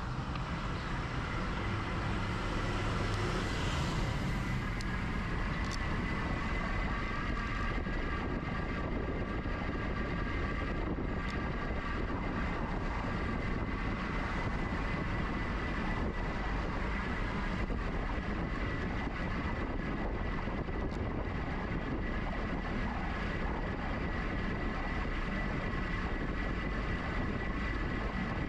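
Riding an electric bike (GoCycle GX): steady wind rush and tyre rumble with a steady high whine.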